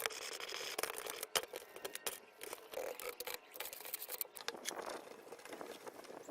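Irregular scraping and quick small clicks of hand work on the metal parts of an old iron cutter.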